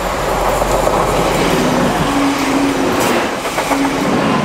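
Passenger train passing close by at speed, a loud steady rush of wheel and rail noise. There are a few wheel clicks about three seconds in and a low hum that comes and goes in the second half.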